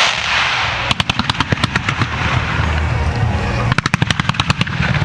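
Fireworks finale: two runs of rapid sharp cracks, about ten a second, starting about a second in and again near the end, over a continuous low rumble of shell bursts.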